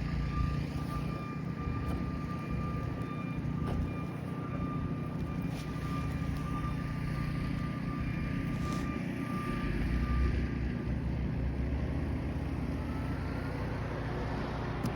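Snow blower engine running steadily, a low continuous hum.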